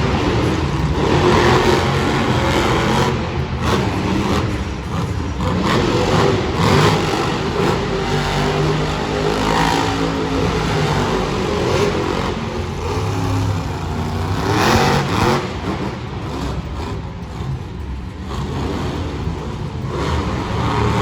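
Monster truck engines revving, rising and falling in pitch again and again as the trucks accelerate and ease off.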